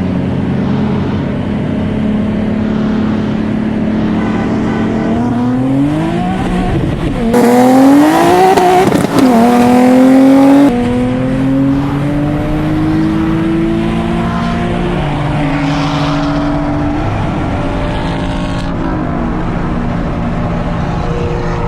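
Nissan 370Z V6 engine holding a steady cruise, then going to full throttle about five seconds in and pulling hard through the gears in a roll race, its pitch climbing, dropping briefly at a gear shift, and climbing again. It is loudest between about seven and eleven seconds in, then eases off to a lower steady note.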